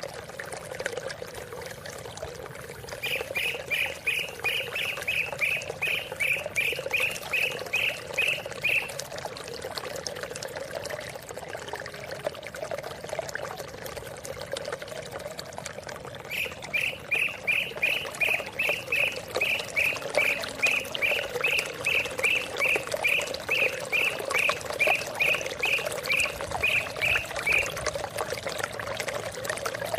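A cucak ijo (green leafbird) calling in two long runs of rapidly repeated notes, about two to three a second: the first a few seconds in, lasting about six seconds, the second starting about halfway and lasting about eleven seconds. Steady running water flows underneath.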